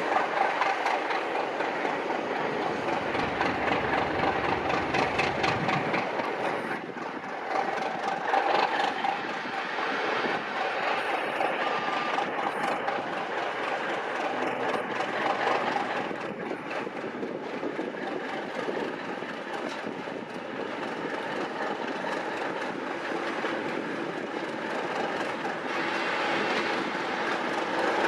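A train passing, its wheels clicking in a steady rhythm over the rail joints above a continuous rumble of running noise.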